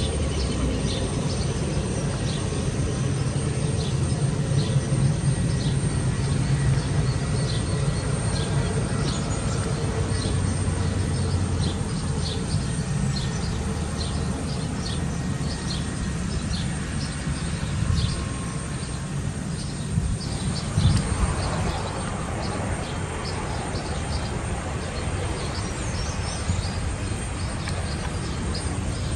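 Airbus A320 jet engines rumbling low and steady during the approach and landing, with a louder swell about twenty seconds in. Birds chirp repeatedly throughout.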